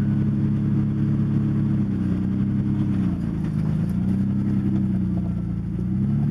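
2000 Ford Explorer's engine running at low revs. Its pitch sags and recovers twice, about two seconds in and again near the end.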